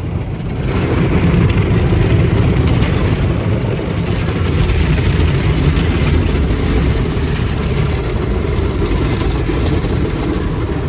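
Tunnel car wash machinery working over the car, heard from inside the cabin: a loud, dense, steady rush that swells about a second in and holds.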